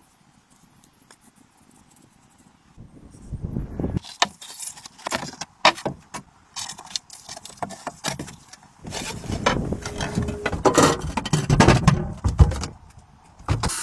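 Irregular clinking, clicking and knocking of hard objects being handled, starting a few seconds in after a quiet stretch, with a low rumble under the busier part near the end.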